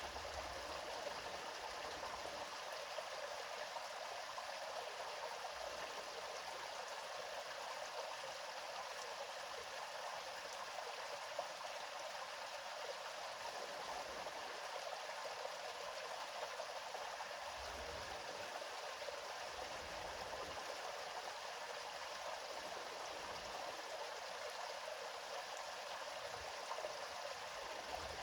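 River water flowing over stones in a steady, even rush, with no change in strength.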